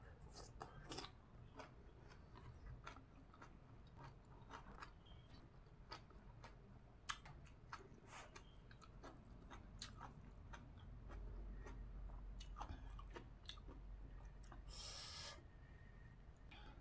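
A person chewing a mouthful of shredded green papaya salad, quiet and close, with many small wet clicks from the mouth. There is a brief burst of noise about fifteen seconds in.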